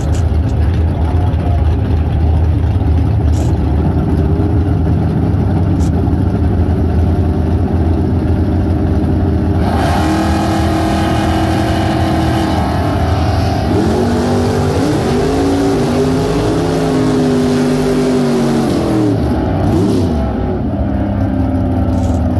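Drag cars' V8 engines idling loudly and lumpily at the starting line. About ten seconds in, the engine sound gets louder and fuller, and from about fourteen seconds it revs up and down in repeated rising and falling sweeps.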